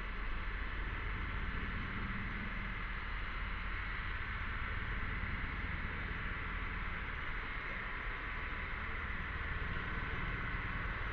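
Cicadas droning in a steady, unbroken chorus, with a steady low rumble underneath.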